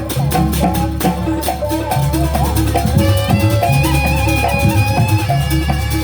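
Live Javanese traditional ensemble music for a jaranan dance: a melodic line over drumming and a steady low drone, playing a sampak piece.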